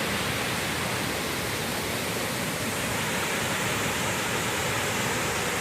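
Steady rushing of a large waterfall and its rapids.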